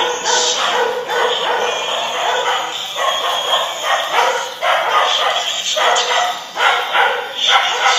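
A dog barking over and over.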